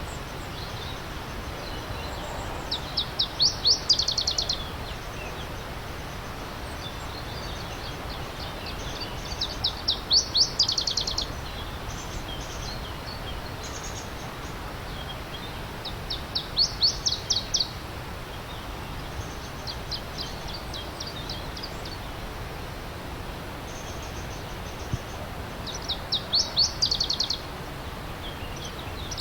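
A songbird repeating a short, fast trill of high notes four times, about every six to seven seconds, with fainter chirps between, over the steady rush of a stream.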